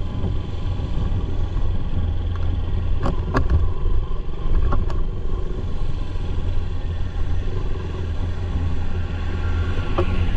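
Motorcycle running along the road: a steady low rumble of engine and road noise, with a few sharp knocks about three to five seconds in.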